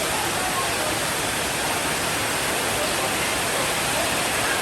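Steady, even rain hiss with no thunder.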